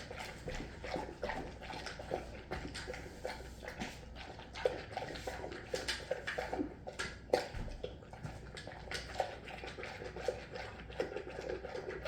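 Dog eating its dinner from a bowl, with broth poured over the food: irregular chewing, smacking and lapping sounds, several a second.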